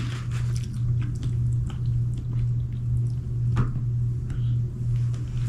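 Chewing and wet mouth sounds of someone eating sauced chicken wings, with small scattered clicks and smacks, one sharper click about three and a half seconds in. A steady low hum runs underneath.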